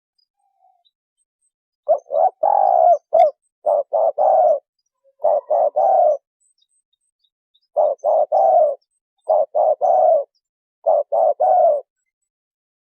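Spotted dove cooing: short phrases of low, hoarse coos, mostly three notes a phrase, repeated six times with brief pauses between.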